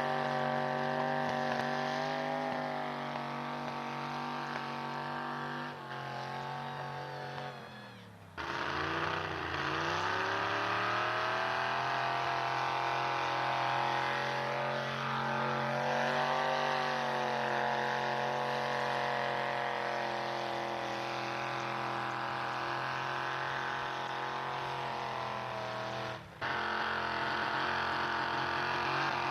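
Pulling truck's engine running at high revs under load, a steady sustained note. About seven seconds in the revs sag and the sound cuts off abruptly, then it comes back low and climbs back to a steady high pitch; a second short dropout comes near the end.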